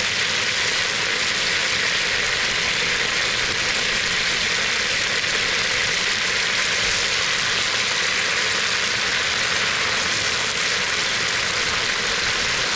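Oil and butter sizzling steadily in a hot pan, the fat heating up for a roux before the flour goes in.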